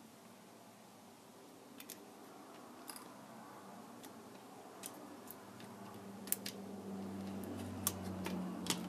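Scattered sharp clicks and taps of small hand tools working on a tablet, about eight in all. A low, steady hum builds up from about halfway through.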